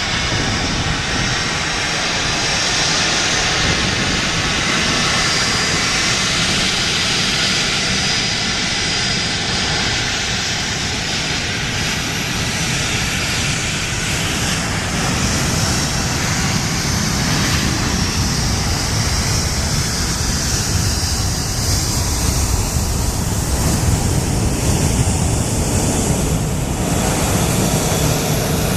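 Bombardier Challenger 350 business jet taking off, its two Honeywell HTF7350 turbofans at takeoff power: a steady jet roar with a high whine, the whine fading and a deeper rumble building about halfway through.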